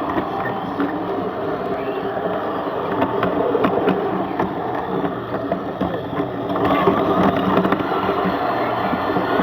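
Small live-steam garden-railway locomotive and its train running on track: a steady rolling rumble of wheels on rail with scattered light clicks, a little louder in the last few seconds.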